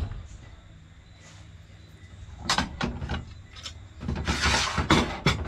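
Kitchen handling sounds: a few sharp knocks and clacks, then a scraping rustle lasting under a second, then more knocks near the end.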